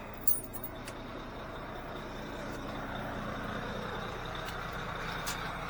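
Steady low rumble of heavy trucks idling, slowly growing a little louder, with a few light clicks about half a second in.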